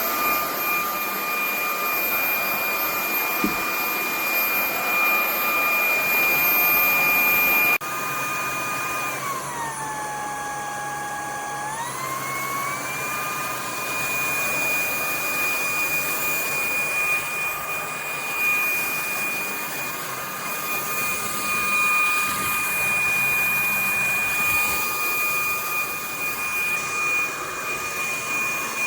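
VIAFLY cordless stick vacuum's motor running with a steady high whine. About nine seconds in, the whine drops in pitch for about three seconds, then rises back to its steady note.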